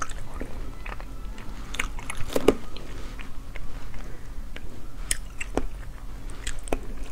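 Close-miked mouth sounds of a person chewing the soft, slippery, seed-filled flesh of akebia fruit: irregular small wet clicks and smacks, the loudest about two and a half seconds in.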